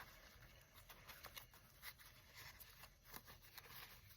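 Near silence with faint paper rustling and a few light taps as handmade paper craft pieces are handled.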